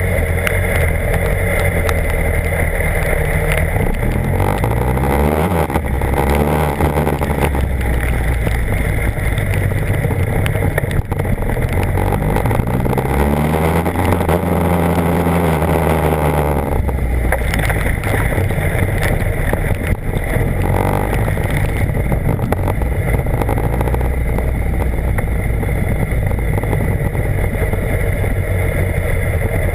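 BMW HP4's inline-four engine running while the motorcycle is ridden, its note rising and falling twice, under a steady rush of wind and road noise.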